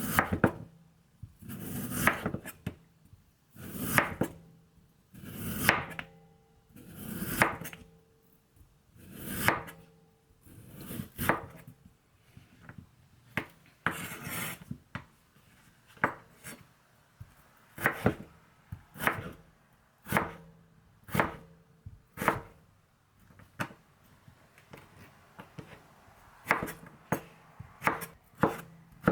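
Knife cutting through food on a cutting board: single strokes about every two seconds, coming quicker and closer together near the end.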